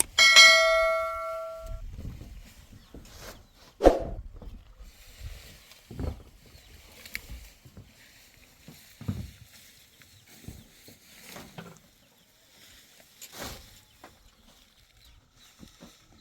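A loud metallic ring that fades over about two seconds, followed by a few scattered knocks.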